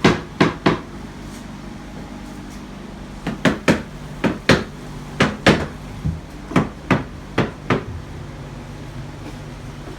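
Repeated sharp hammer strikes, in uneven clusters of two or three with short gaps between them, over a steady low hum.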